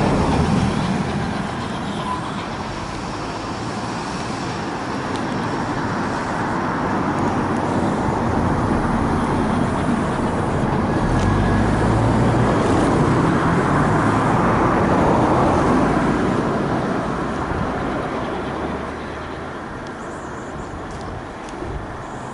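A train running by, a steady rumbling noise that swells to its loudest in the middle and fades toward the end.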